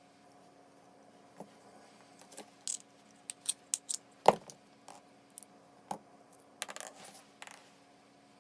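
Small metal parts clinking and tapping as they are handled and set down, a scattering of light clicks with one sharper knock about four seconds in.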